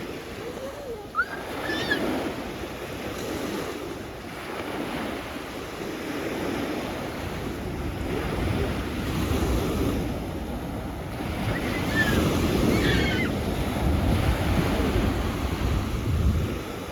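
Sea waves washing onto the shore, the surf swelling louder in the second half, with wind buffeting the microphone. A few faint short calls rise above it near the start and again about twelve seconds in.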